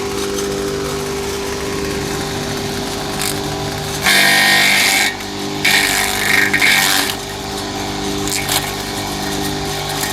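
Small electric grass chopper's motor running steadily, its blades shredding odot grass stalks fed in one at a time. About four seconds in come two louder stretches of chopping, each about a second long.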